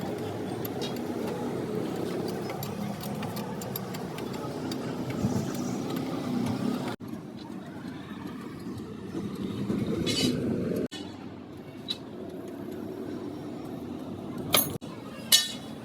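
A steady low engine-like rumble with workshop noise. It breaks off abruptly a few times, and a few sharp metallic clinks come near the end.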